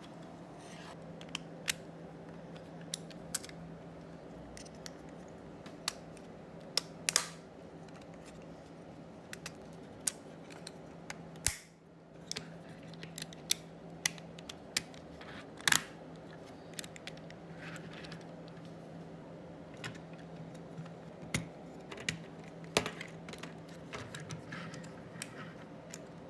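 Small hard plastic parts clicking and tapping irregularly as they are handled and snapped together, over a steady low hum.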